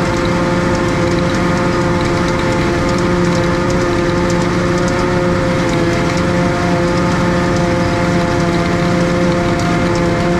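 Tractor and trailed silage harvester running steadily at working revs: a constant engine and machine drone with no change in speed, with faint scattered ticks over it.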